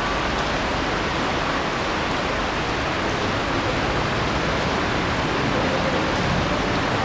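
Shallow city stream's water rushing steadily, an even unbroken hiss.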